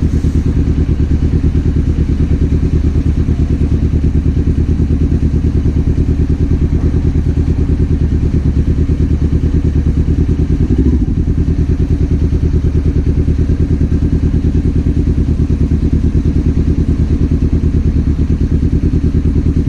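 Kawasaki Z400 parallel-twin engine running steadily at a low, even pulse, as at idle, with one short throttle blip about eleven seconds in.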